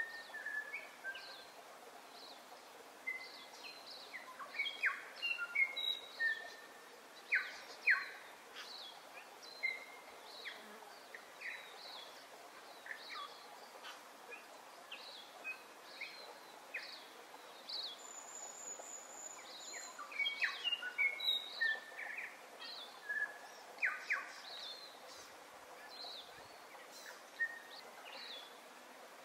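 Birds chirping and calling: many short chirps and quick whistles scattered throughout, with a brief high steady trill about eighteen seconds in, over a faint steady hiss.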